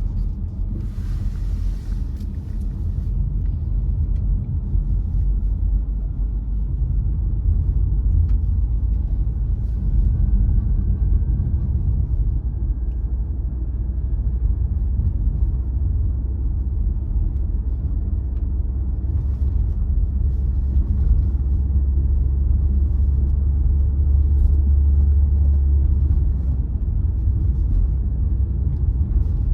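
A car driving along, its engine and tyres making a steady low rumble, with a brief hiss about a second in.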